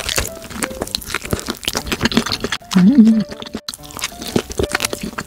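Close-miked crunching and chewing of crispy basil-seasoned fried chicken, a rapid run of crackling bites. About three seconds in there is a short hummed "mm" of enjoyment.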